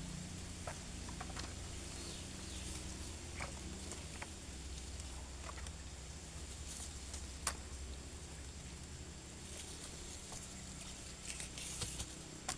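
Light footsteps and scattered snaps and crackles of dry leaves and twigs underfoot, over a steady low rumble.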